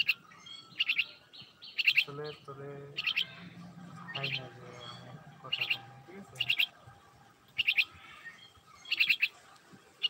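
Short, sharp bird chirps, often doubled, repeated about once a second, with a fainter, lower sound underneath from about two to six seconds in.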